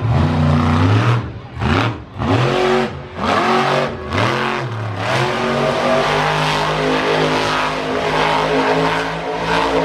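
Monster truck engine revving hard in several quick throttle blips, each rising and falling, then held at high revs for the last five seconds or so.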